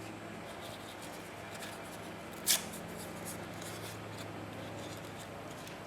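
Paper pieces being handled and shuffled on a craft table: faint rustles, with one short sharp paper rustle or tap about two and a half seconds in, over a low steady hum.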